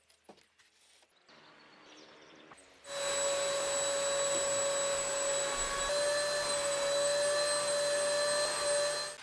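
A few faint clicks of handling, then about three seconds in a small electric motor starts and runs at an even, steady whine over a rushing hiss for about six seconds, stopping just before the end.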